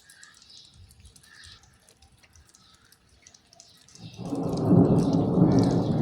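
Faint rain patter with a few bird chirps, then about four seconds in a loud, deep rumble of thunder breaks in and keeps rolling.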